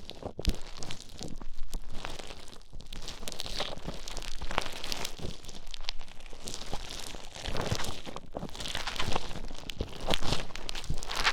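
Play Foam beaded modelling compound being squished and worked with an ear pick close against an ear microphone: a continuous, irregular crackling and squishing full of tiny popping clicks.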